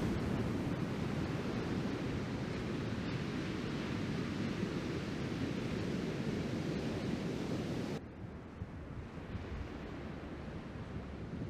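Ocean surf from a typhoon swell, a steady rushing wash with wind rumbling on the microphone. About eight seconds in, the sound drops abruptly and loses most of its hiss.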